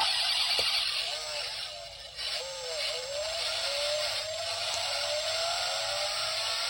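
A small motor whirring over a steady hiss, its pitch gliding up and down as if revved.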